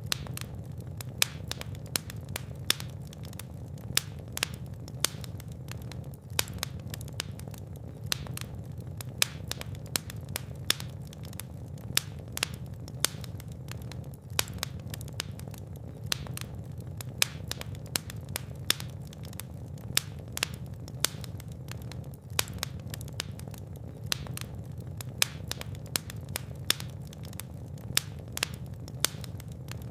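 Fire burning in a fireplace: a steady low rumble of the flames with frequent irregular crackles and sharper pops.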